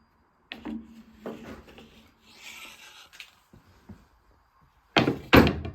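Knocks and a short scrape from the hatch frame being handled and taken apart, with two loud sharp knocks near the end.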